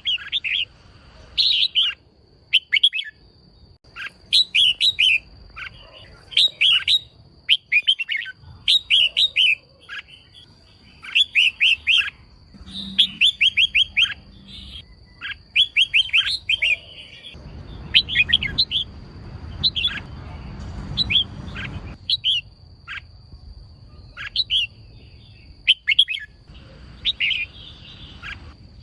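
Female red-whiskered bulbul calling: short bursts of quick, high chirping notes repeated every second or two.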